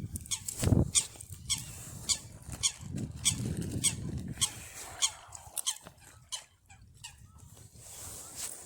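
Geese honking and calling in a crowd being fed, with a run of sharp clicks throughout and short low rumbles about a second in and again around three to four seconds.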